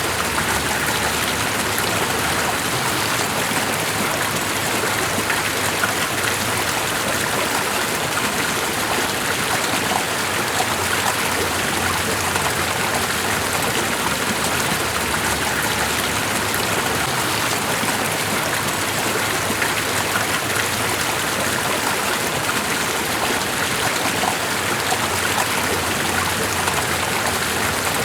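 Steady rushing water with fine splashing, even and unbroken, with no lulls or single events.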